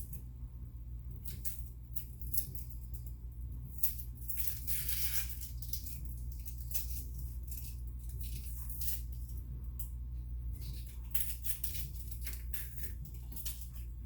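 Scattered clicks, rustles and light knocks of things being handled, with a longer rustle about five seconds in, over a steady low hum.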